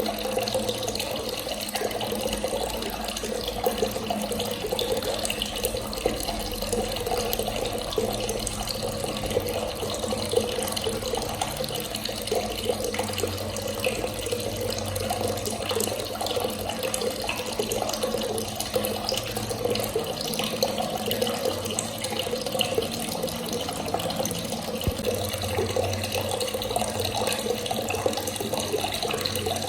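Water running from a tap in a steady, unbroken stream.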